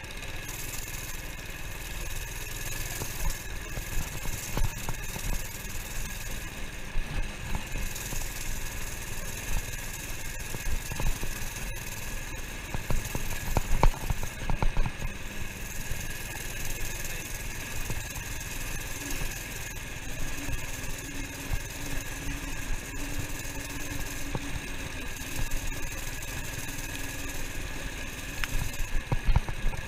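Minibike's small engine running steadily under way, with a few sharp knocks, the loudest about halfway through.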